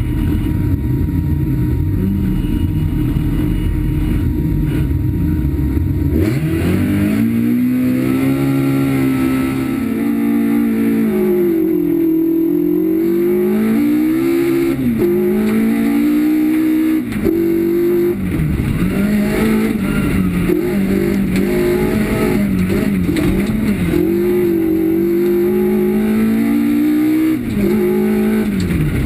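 Opel Tigra autocross car's engine, a rough noisy rumble for about the first six seconds, then revving hard, its pitch climbing and dropping back again and again as the car accelerates, shifts and lifts on the dirt track.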